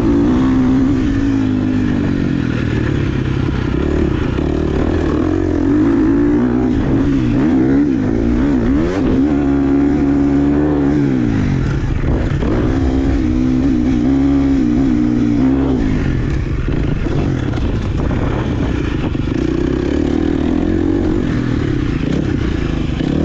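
Dirt bike engine being ridden hard, its pitch rising and falling over and over as the throttle opens and closes, with a sharp drop about 11 seconds in and again near 16 seconds.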